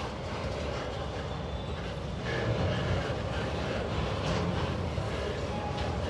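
Empty freight wagons of a long train rolling past on the rails: a steady rumble of wheels on track with faint clicks, growing a little louder about two seconds in.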